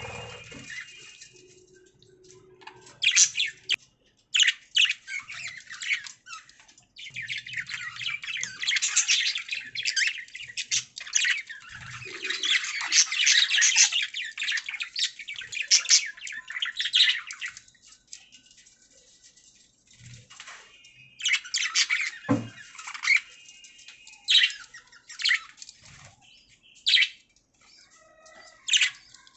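Budgerigars chirping and warbling in rapid bursts, with a long busy stretch through the middle and short pauses between.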